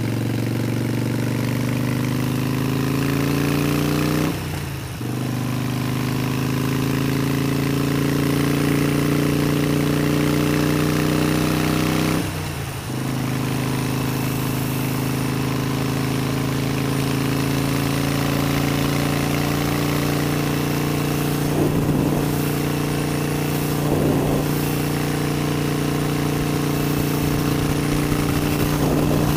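Harley-Davidson Sportster 72's air-cooled 1200 cc V-twin engine pulling hard while accelerating onto a highway. Its pitch climbs, then breaks briefly for an upshift about four and a half seconds in and again about twelve seconds in, and after that it runs steadily at cruising speed.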